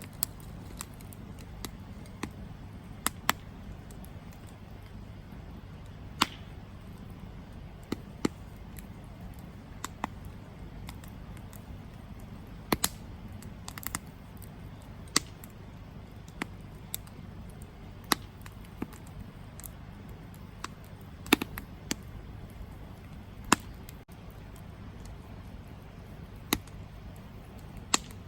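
Wood campfire crackling: irregular sharp pops and snaps, roughly one every second or two, some louder than others, over a soft steady low rush.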